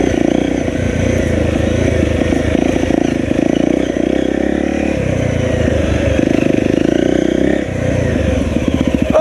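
Enduro dirt bike engine running at low revs on a steep descent, the throttle opened in three short surges between easier stretches.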